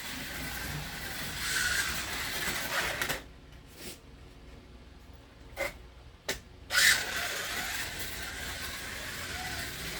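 1/24 scale slot car with a scratch-built brass chassis whirring around the track, its motor and gears making a steady whine. About three seconds in the sound falls away for several seconds with a few sharp clicks, then picks up loudly again.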